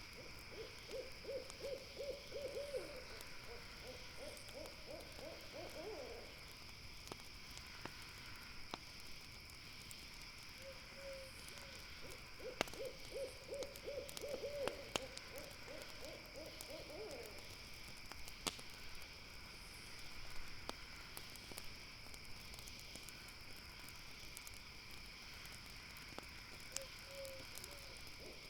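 An owl gives a long trilling call twice, each a rapid run of low hoots on one pitch lasting about five seconds. Under it, a campfire crackles with scattered sharp pops, and a steady high hum carries on throughout.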